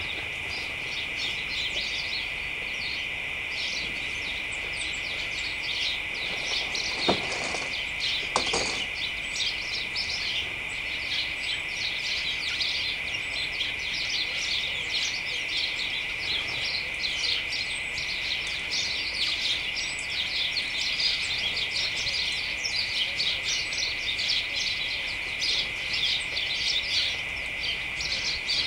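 A flock of house sparrows chattering in a hedge: many rapid, overlapping chirps without a break. A steady high tone runs underneath, and two brief knocks come about a quarter of the way in.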